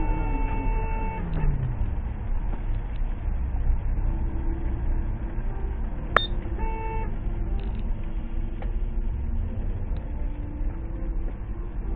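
Steady vehicle and road rumble, with a held car-horn tone that cuts off just over a second in and a short horn toot around seven seconds in. A single sharp click comes just before the toot.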